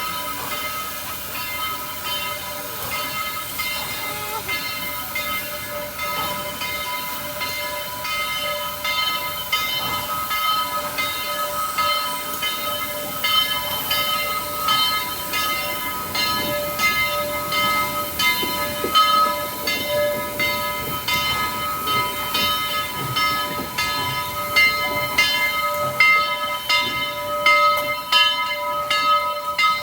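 A train rolling along the rails, its steel wheels giving a steady high squeal with a regular clicking of wheels over rail joints that gets louder toward the end.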